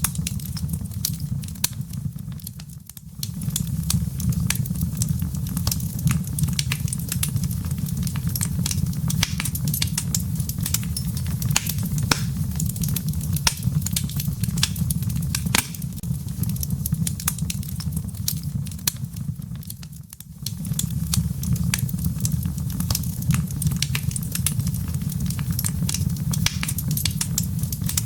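Wood fire crackling in a fireplace: a steady low rumble of flames with frequent sharp pops and snaps from the burning embers. Twice the sound briefly fades and comes back.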